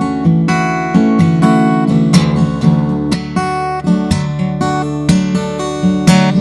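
Acoustic guitar strumming chords, each strum ringing into the next, with no singing over it.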